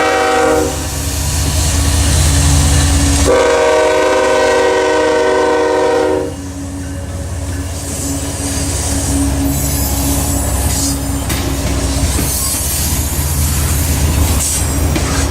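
Train passing with its diesel locomotive horn sounding: a blast that ends just under a second in, then a longer blast from about three to six seconds. After that comes the steady rumble and rattle of the train rolling by.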